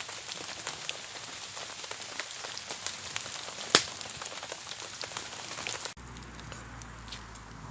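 Heavy rain pattering on a tarp, an even hiss full of small drip ticks, with one sharp crack about four seconds in. About six seconds in the sound changes abruptly to a quieter, duller hiss with a low hum.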